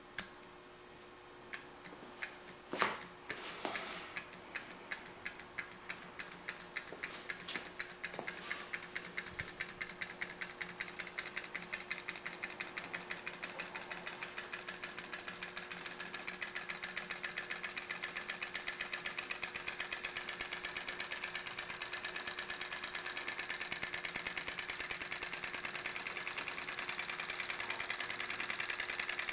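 Homemade solenoid engine, built like an 1800s Froment electric motor, clacking as its solenoids pull in turn. A few separate clacks come first, then a rhythmic clatter that speeds up over the first fifteen seconds or so and keeps running fast.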